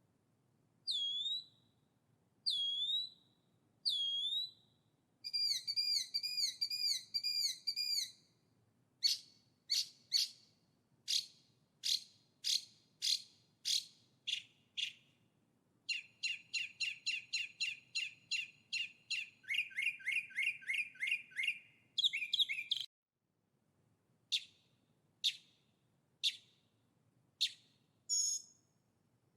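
Songbird singing in a string of varied phrases: three separate whistled notes that dip and rise, a run of quick repeated notes, a series of sharp falling chips, then a fast trill. A brief gap of silence comes a little after the middle, followed by more spaced chips.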